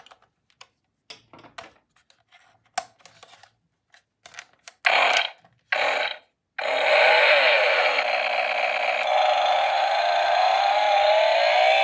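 Light plastic clicks and handling, then the small battery motor of a toy power tool: two short trigger presses about five and six seconds in, then it runs continuously with a whir that slowly rises in pitch.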